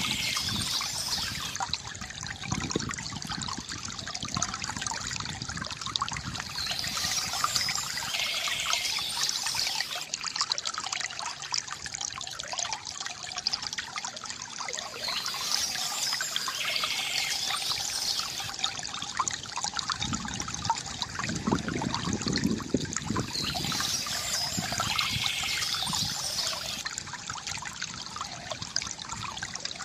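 Water trickling and gurgling steadily from a bamboo fountain spout.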